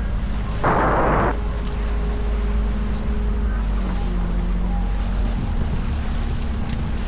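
Wind buffeting the microphone over the steady drone of a motorboat engine, with a short rush of noise about a second in.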